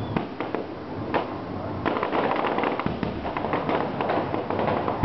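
Fireworks going off: a few sharp bangs in the first second, then a dense run of crackling reports from about two seconds in.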